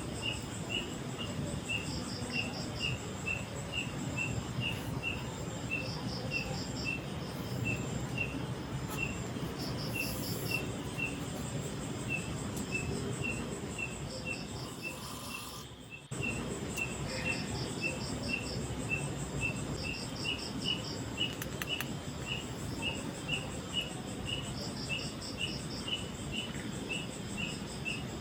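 Insects calling in the forest: a regular high chirp about two or three times a second, with bursts of faster, higher trilling every few seconds, over a steady rushing background noise. The sound briefly drops out about sixteen seconds in.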